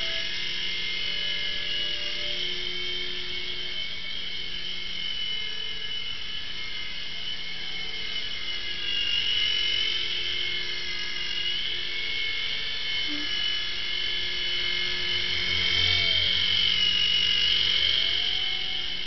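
Small electric RC helicopter's motor and rotors whining steadily in flight. The pitch and loudness drift up and down with the throttle, swelling about halfway and again near the end.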